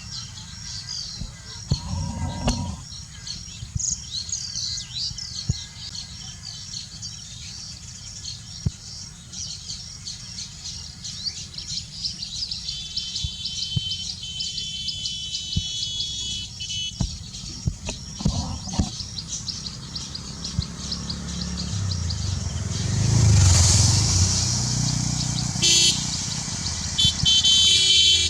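Baya weavers chattering, many short high chirps overlapping, with fast buzzy trills in two stretches, one in the middle and one near the end. A low traffic rumble runs underneath and swells as a vehicle passes about three-quarters of the way in.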